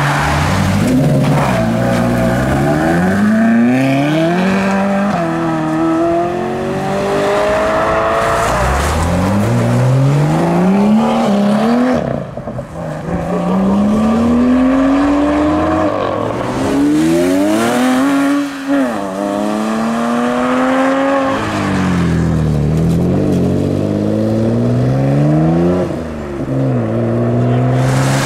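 Performance cars accelerating hard away one after another. Their engines rev up in repeated rising sweeps, each broken by a gear change. One of them is a BMW M2's turbocharged straight-six.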